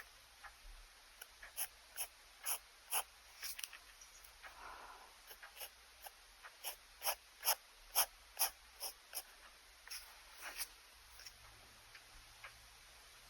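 Pen nib scratching across paper in short, quick sketching strokes, about two a second, loudest around the middle.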